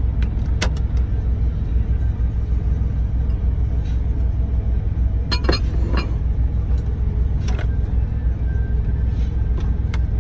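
Steady low rumble of the truck, heard from inside the cab, with a few short sharp clinks of kitchen items being handled.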